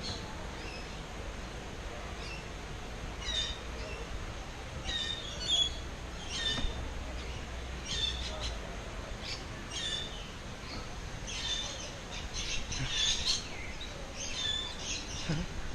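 Parrots calling: short, high, scratchy calls repeated every second or so, bunching up into a busier run of calls a little after the middle, over a faint low rumble.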